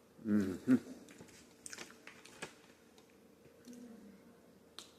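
A person chewing and biting food close to the microphone, with small wet clicks and mouth smacks, and a short voiced hum about half a second in.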